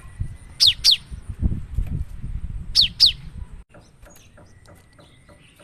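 Cinereous tit (gelatik batu) singing: two pairs of sharp, high whistled notes, each falling steeply in pitch, about half a second and three seconds in. A low rumble runs under the first part and stops about two-thirds of the way through.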